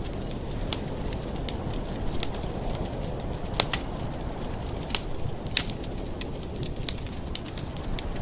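Campfire burning, wood crackling with irregular sharp pops, a few louder snaps in the middle, over a steady low rush of the flames.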